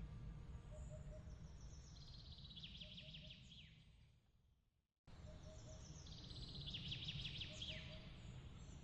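Soft nighttime chirps in quick trills over a low, steady rumble. The sound fades out to silence a little past halfway, then cuts back in and the same chirps repeat, as at the seam of a looped ambience track.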